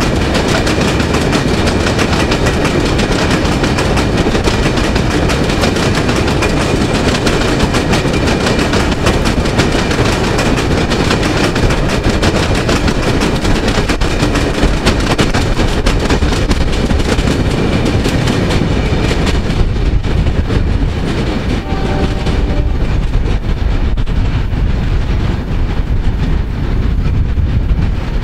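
A long rake of steel hopper wagons on a diesel-hauled spoil train rolling past, with a steady, dense clatter of wheels on the rails. The sound loses its hiss and thins out about two-thirds of the way through as the train draws away.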